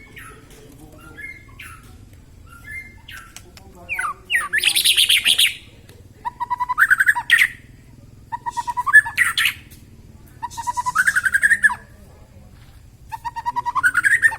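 Young white-rumped shama (murai batu), just out of its spotted juvenile plumage, calling loudly. A few soft chirps come first, then five loud phrases of rapid repeated notes, each rising in pitch and lasting about a second.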